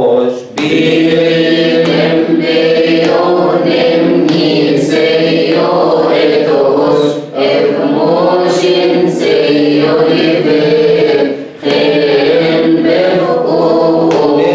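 Coptic liturgical hymn chanted a cappella in long, drawn-out melismatic phrases over a steady low held note, with short breath breaks about half a second in, around seven seconds in, and near twelve seconds.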